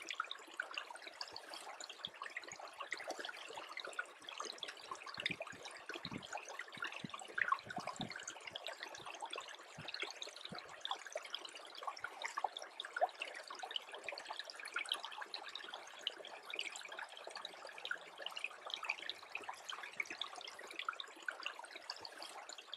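Small stream freezing over, its water trickling steadily, with many tiny ticks and pops throughout and a few soft low thuds about five to eight seconds in.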